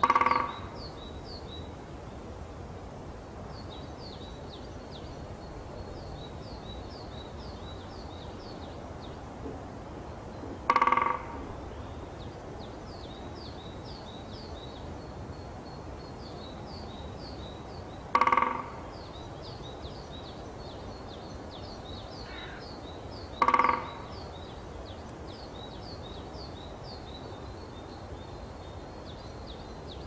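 A bird's loud, harsh call, sounded four times at uneven intervals of several seconds, each about half a second long. Between the calls, faint high chirping from small birds goes on steadily.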